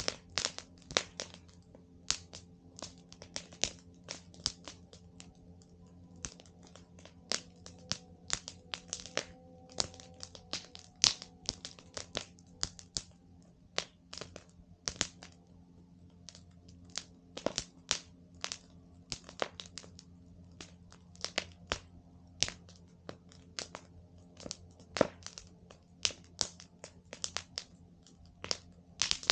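Wood campfire crackling: irregular sharp cracks and pops, sometimes several a second, over a faint steady low hum.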